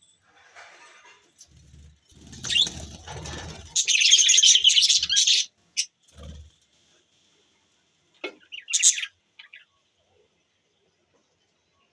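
Budgerigars chirping and chattering: a loud, dense run of high warbling chatter about four seconds in, then scattered short chirps. Before the chatter there is a couple of seconds of low rustling and fluttering noise.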